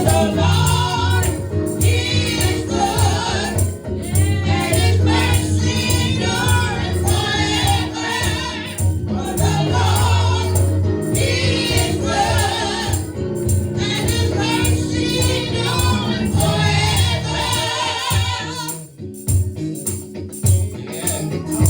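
Live gospel praise singing: a group of voices singing over instruments, with a tambourine shaking steadily on the beat. The music thins out briefly near the end before picking up again.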